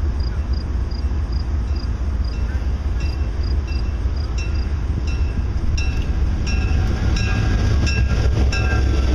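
EMD E8A and SW1500 diesel locomotives running light past, their engines a steady low rumble that grows louder toward the end. A bell rings at an even pace throughout, and wheel clicks over the rail joints come in near the end.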